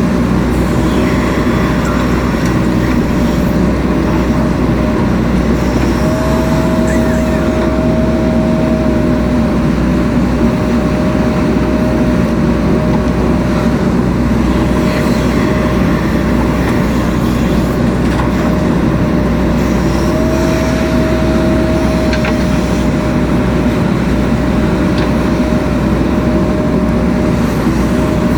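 JCB 3DX Super backhoe loader's diesel engine running steadily under working load, with a hydraulic whine that rises slightly twice as the arm and bucket are worked.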